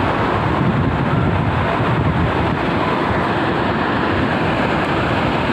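Steady beach ambience: surf and wind noise on the microphone, with faint distant voices.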